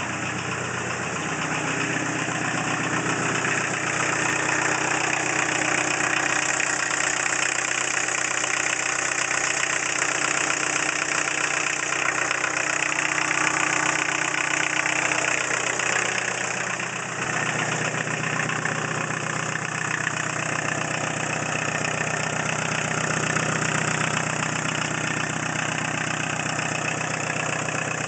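Volkswagen T3 diesel engine running with no exhaust fitted, idling steadily after a cold start. The level dips briefly a little past halfway.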